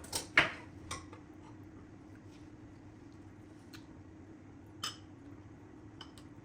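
Scattered clinks and taps of tableware while eating curry and rice, a cluster of them in the first second and a few single ones later, over a steady low hum.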